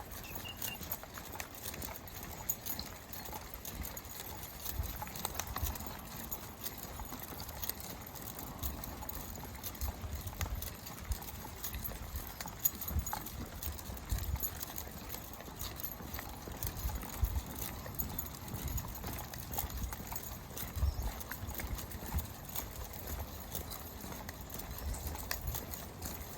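Footsteps of a walker and a pack of dogs on a trail: irregular low thumps with light clicks scattered throughout.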